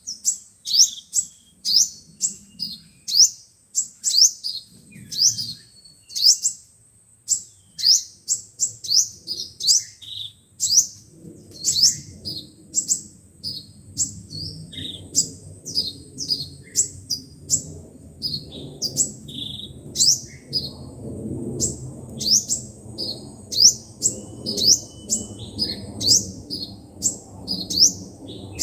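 Sunbirds calling: a rapid, continuous series of sharp, high chips, several a second, the kind of recording played through a loudspeaker to lure sunbirds. A low background rumble builds up from about a third of the way in.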